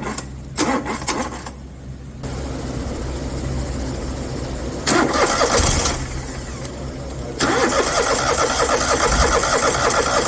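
Kohler ECV 860 EFI V-twin engine being started: it turns over in a short burst about five seconds in, then again in a longer run from about seven and a half seconds until the end. The engine is one that starts and cuts off, a fault the owner puts down to a failed fuel pump module.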